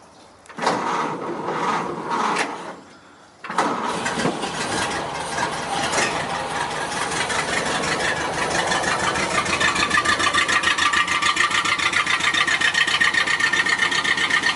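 Ford Model A four-cylinder flathead engine being cold-started. A first attempt of about three seconds cuts off. The engine catches about three and a half seconds in and keeps running with an even beat as it warms up.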